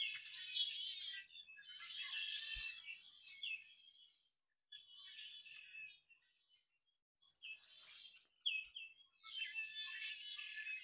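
Small songbirds chirping and twittering in bursts, with brief pauses about four seconds in and again around six to seven seconds.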